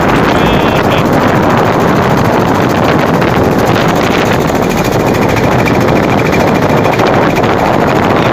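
Engine of a motorized river boat running steadily and loudly, an even noise that does not change.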